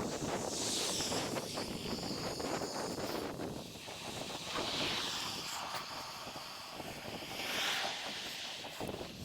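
Wind buffeting the microphone of a camera riding along on a moving bicycle: a steady noisy rush that swells three times, about a second in, near the middle and near the end.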